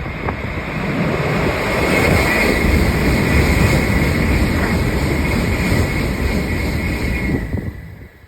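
Shinkansen bullet train passing close at speed: a loud rushing noise with a steady high whine. It builds over the first couple of seconds and drops away sharply about seven and a half seconds in.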